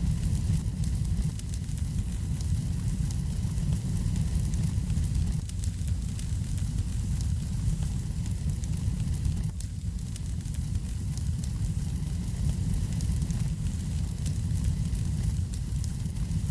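Wood fire burning in a fireplace: a steady low rumble of the flames, with frequent small crackles and pops.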